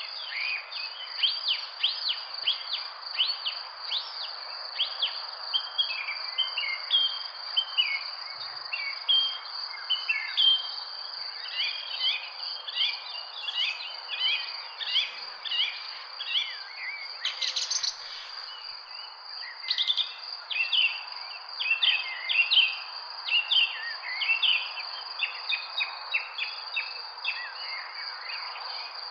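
Birds in a park chirping and calling almost without pause, many short quick notes overlapping. A steady high-pitched tone runs unbroken underneath, over a soft background hiss.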